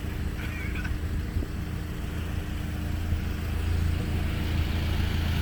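Honda four-cylinder car engine idling steadily, a low drone at an unchanging pitch that grows slightly louder near the end.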